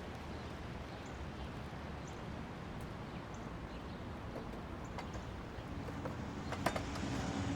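Faint, steady background noise, with a few scattered faint clicks.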